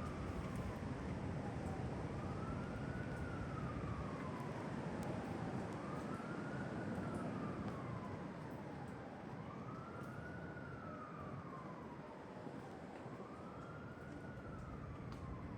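Strong wind blowing over a siren wailing, its pitch rising and sliding back down about every four seconds. The wind eases slightly about halfway through.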